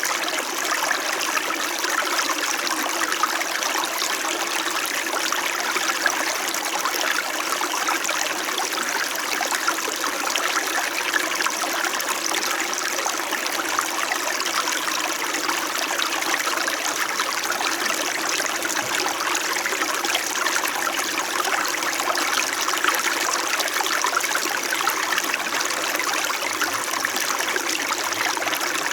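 Small mountain stream flowing steadily, a continuous babble and trickle of water over rocks.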